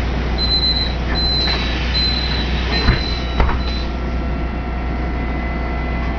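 Door warning beeper of a public-transport vehicle sounding four high beeps about a second apart, followed by two knocks as the doors shut, over the steady low hum of the vehicle.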